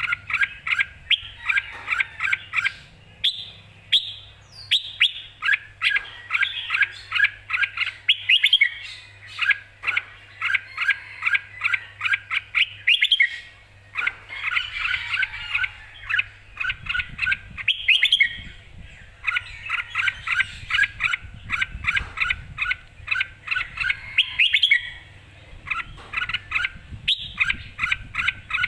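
Red-whiskered bulbul singing hard: phrases of quick, clear, short notes repeated in runs with brief pauses, the song of a keyed-up bird in contest form. A faint low hum sits beneath the first half and stops about two-thirds of the way in.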